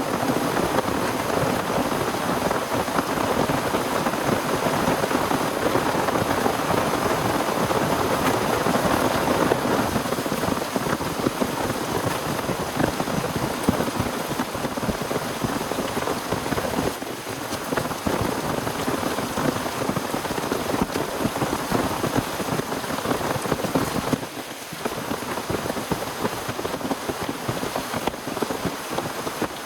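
Heavy rain falling steadily on a surface, a dense, unbroken patter that eases briefly twice in the second half.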